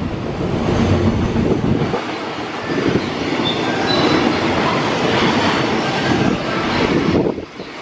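Freight train running past: steady rumble of wagon wheels on the rails with rhythmic clacking over rail joints and a few short, faint wheel squeals. The noise dips briefly about seven seconds in.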